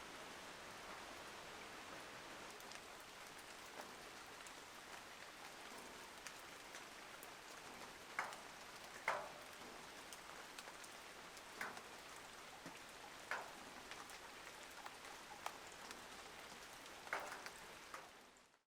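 Light rain falling steadily, with a handful of louder single drops scattered through it. It fades out just at the end.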